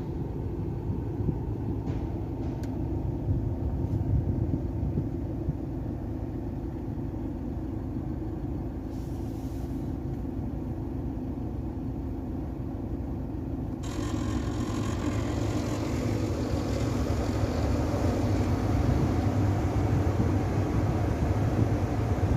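Steady low rumble of a Ford Ranger 2.2 heard from inside the cab, with a rush of air coming in suddenly about two-thirds of the way through, as of the dashboard blower fan. The blower motor is taken for the source of a rattle in the dashboard.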